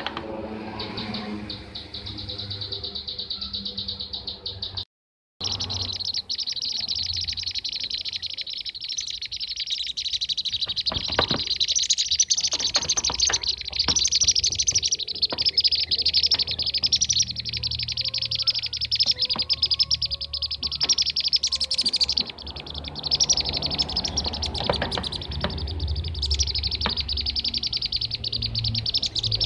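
Bee-eaters (kirik-kirik) calling in a dense, continuous chorus of rapid rolling trills, played as a lure call. The calls break off for a moment about five seconds in.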